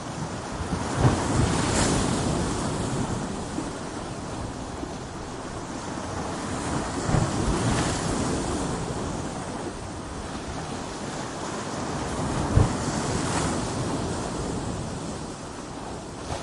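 Ocean waves breaking against coastal rocks: a constant wash of surf with three heavier waves striking, each a sudden low thud and a rush of spray, about 1, 7 and 12 seconds in.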